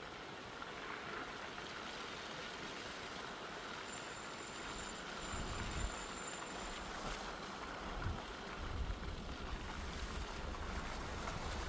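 A steady rushing noise of wind and weather outdoors. From about halfway through, gusts of wind buffet the microphone with a low rumble.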